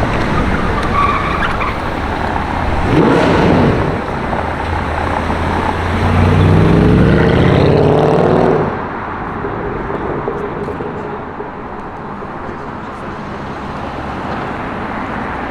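A car engine accelerates past in street traffic. Its note climbs for a couple of seconds from about six seconds in, then drops away sharply. A shorter, louder passing sound comes about three seconds in, over steady traffic noise.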